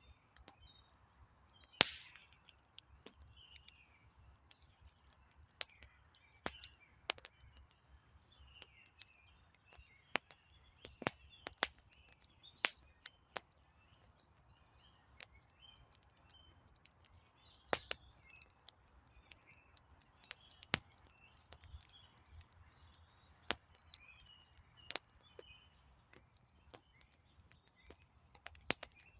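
Wood campfire crackling: irregular sharp pops and snaps from the burning logs, one louder snap about two seconds in, with faint bird chirps in the background.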